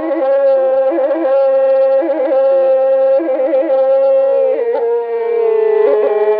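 Background music on a reedy wind instrument: a held melody with quick ornamental flourishes over a steady drone, stepping down in pitch about four seconds in.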